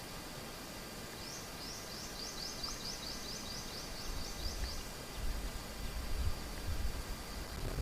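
A bird calling a rapid series of about a dozen short rising chirps, about four a second, over a steady faint high-pitched drone. Low rumbling noise comes in about halfway through.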